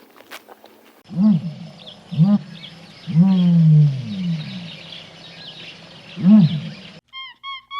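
A large wild animal giving four low, roar-like calls, the third long and falling in pitch. Near the end the sound cuts to a high, even chirp repeated about twice a second.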